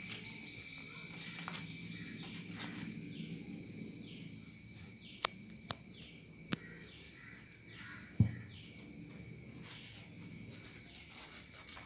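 Quiet room background with a bird calling over and over in short falling chirps and a steady high tone. Faint clicks of paper being handled, and a soft knock about eight seconds in as the glue bottle is set down on the table.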